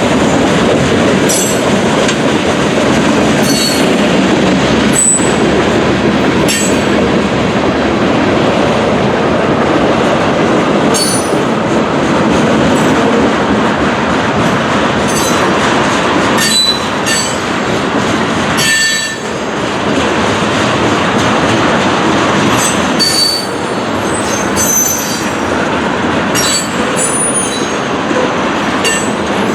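Freight train cars rolling past at close range: a steady loud rumble of steel wheels on rail, with short, irregular high squeals and clicks from the wheels.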